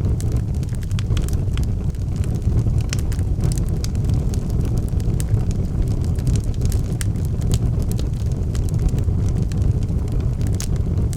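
Wood fire burning in a fireplace: a steady low roar of the flames with frequent sharp crackles and pops from the burning logs.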